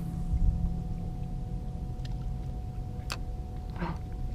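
Low, steady rumble of a boat's motor, with a faint steady hum above it and a single light click about three seconds in.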